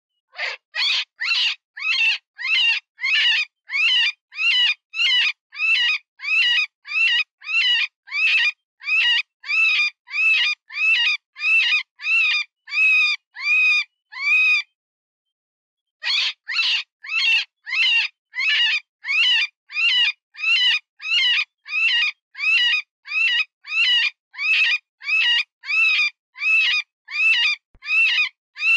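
Cottontail rabbit distress call used as a predator lure: a run of short, high, wavering squeals repeated about twice a second. The cries stop for about a second and a half midway, then start again at the same pace.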